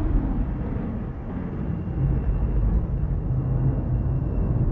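Low, steady rumble of rolling thunder. A faint thin, high steady tone joins about two seconds in.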